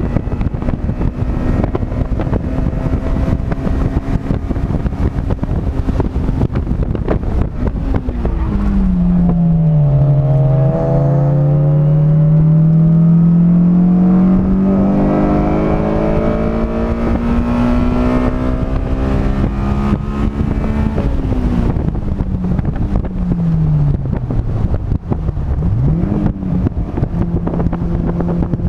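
A car's engine at speed on a race track: it runs at a steady pitch, drops sharply about a third of the way in, then climbs slowly in one long pull for about ten seconds. It falls again with a quick blip of revs near the end and settles, all over a steady rush of wind and road noise.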